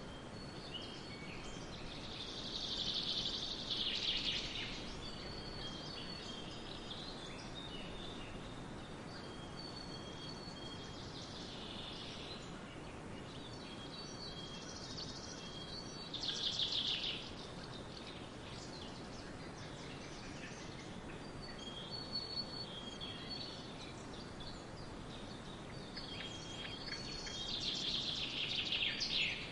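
Forest birds singing: high-pitched song phrases and whistles every few seconds, the loudest about three seconds in, around sixteen seconds in and near the end, over a steady background hiss.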